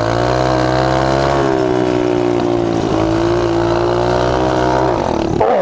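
Honda CT70 mini bike's small four-stroke single-cylinder engine pulling away in gear. Its pitch climbs for about a second and a half, then holds steady under throttle and drops away about five seconds in.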